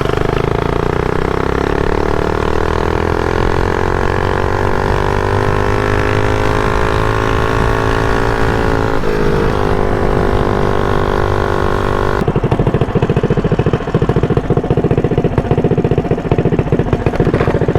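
Mini bike's single-cylinder four-stroke Predator 212 engine, fitted with a Mod 2 cam, pulling under throttle with its pitch slowly rising, briefly dipping about nine seconds in, then holding steady. About twelve seconds in the rider lets off, the wind hiss drops away and the engine settles into a low, pulsing idle as the bike slows.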